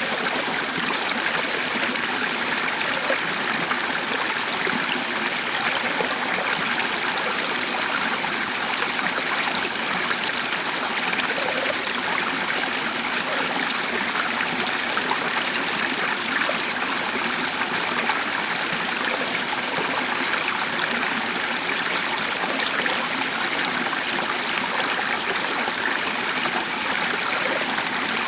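Stream running steadily, an even rush of flowing water.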